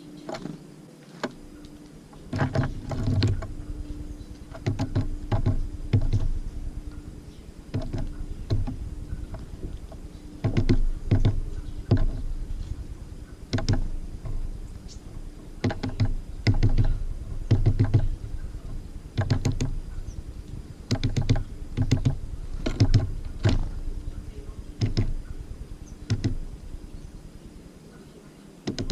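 Tits landing, hopping and pecking at a bird feeder close to the microphone: bursts of rapid tapping and knocks in clusters every second or two, over a faint steady hum.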